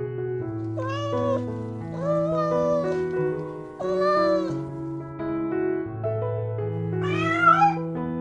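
Domestic cat meowing four times over steady background music; the last meow, near the end, is the longest and slides up then down in pitch.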